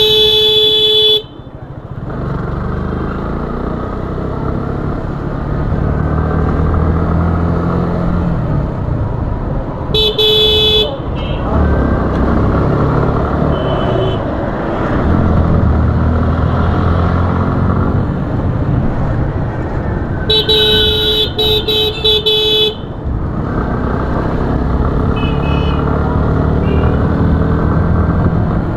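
Motorcycle riding through traffic: engine and wind noise throughout, the engine pitch rising and falling with the throttle. A loud horn sounds several times: a blast ending about a second in, a short honk about ten seconds in, and a string of short toots around twenty to twenty-two seconds in.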